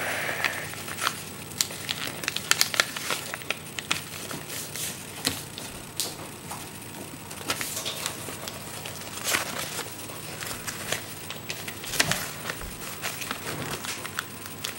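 Sheet of paper being handled and folded, with scattered crinkles, rustles and sharp creasing clicks as the folds are pressed flat.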